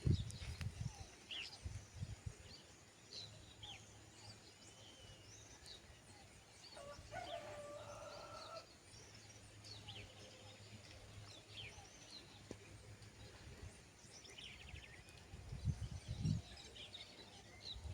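Faint birdsong: many short scattered chirps, with one longer fowl call, a chicken or rooster, held for about a second and a half starting around seven seconds in. Low thumps at the start and again near the end.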